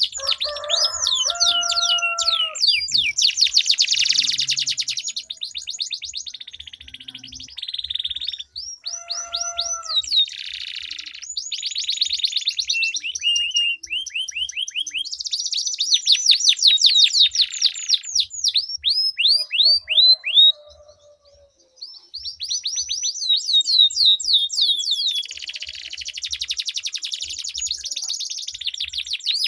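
Domestic canaries singing a duel of long rolling trills: fast runs of repeated down-sweeping notes, with a few lower whistled notes mixed in. The song breaks off briefly about 21 seconds in.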